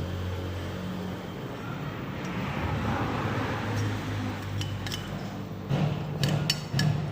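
An engine running steadily, with several sharp metallic clinks in the last two and a half seconds.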